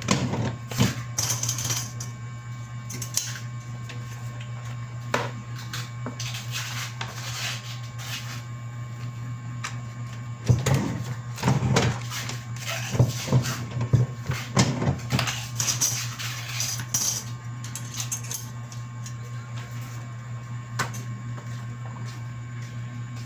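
A steady low machine hum with irregular clicks and knocks over it, busiest from about ten to fifteen seconds in.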